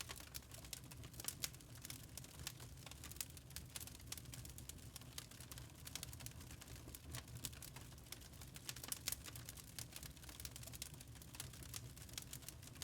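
Log fire crackling in a fireplace: a steady stream of irregular sharp pops and snaps from the burning wood over a soft low rumble of the flames.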